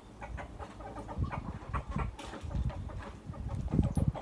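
Chickens clucking in many short, irregular calls, over a low rumble.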